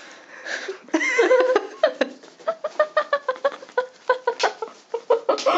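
Young women laughing, a run of short repeated laughs starting about a second in.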